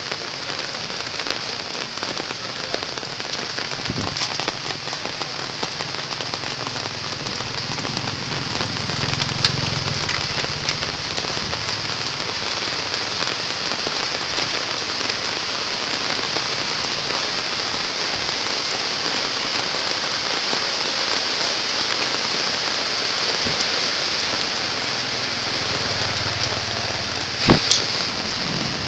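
Heavy rain pouring down in a storm of strong, gusting wind, swelling louder in gusts. There is a sharp crack near the end.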